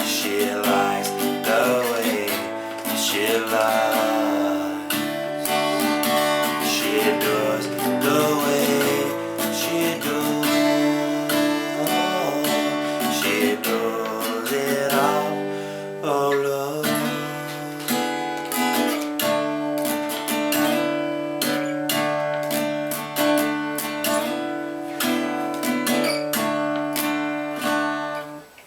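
Acoustic guitar strumming chords in a country song, with a melody line that slides up and down in pitch over them for roughly the first half; the sound drops out briefly near the end.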